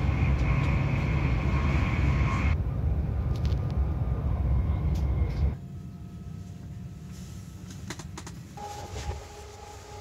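Running noise heard from inside a moving passenger train: a low rumble with hiss, loud for the first five seconds or so, then quieter with a few clicks and faint steady tones. The sound changes abruptly a few times, where separate clips are cut together.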